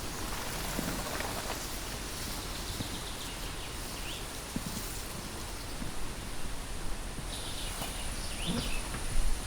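Steady outdoor hiss with light rustling and a few small ticks, and two brief faint bird chirps, about four and eight and a half seconds in.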